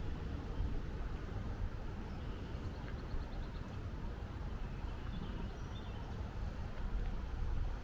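Outdoor ambience: a steady low rumble with a few faint, high bird chirps over it.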